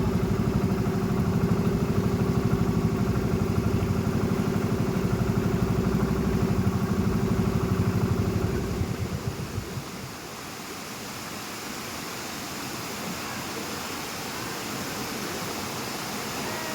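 An engine idling with a steady, fast pulsing hum, which dies away about nine seconds in. Steady rushing water then takes over, growing slowly louder toward the end.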